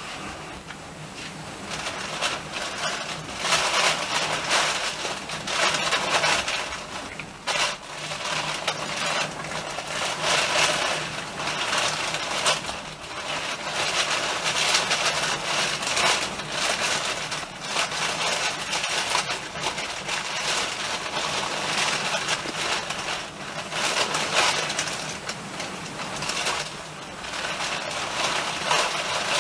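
Train running on rails, heard from inside the carriage: a continuous rushing clatter of wheels and rattling that swells and dips, over a steady low hum.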